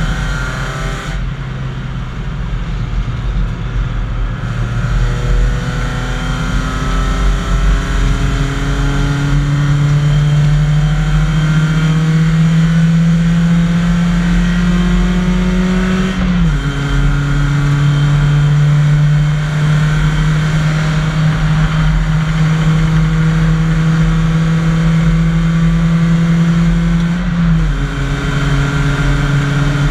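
BMW 318i's inline-four race engine heard from inside the cabin under hard acceleration. Its note climbs steadily through each gear and drops sharply at upshifts about halfway through and near the end. The note softens briefly about a second in.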